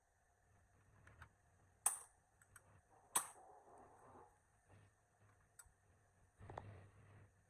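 Two sharp clicks a little over a second apart, with a few lighter ticks around them and a short rustling scrape near the end.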